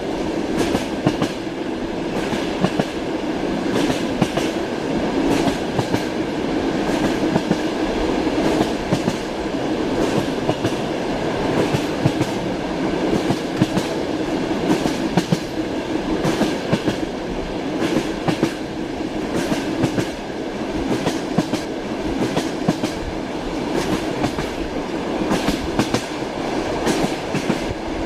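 Train wheels knocking over the rail joints (clickety-clack) over the steady rumble of a moving railway carriage, with frequent short clicks and knocks on top of the continuous running noise.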